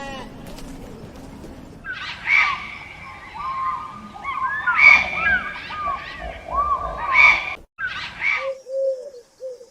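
Several birds chirping and calling over one another in short rising and falling notes. Near the end this gives way to a pigeon cooing in low, repeated notes.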